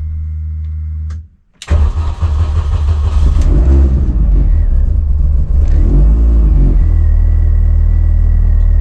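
An R53 Mini Cooper S's supercharged 1.6-litre four-cylinder engine starting about a second and a half in, revved twice, then settling to a steady idle. Before the start, a steady hum cuts out.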